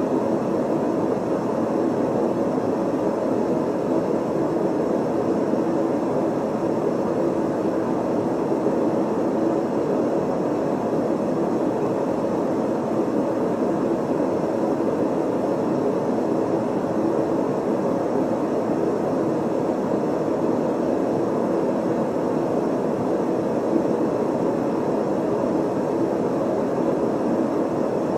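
Steady synthetic colored noise played back as an old-school paranormal listening method: an unchanging dull rush with most of its weight in the lower middle and little treble.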